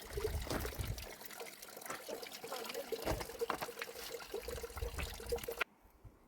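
Water trickling, with many small clicks through it, cut off abruptly near the end.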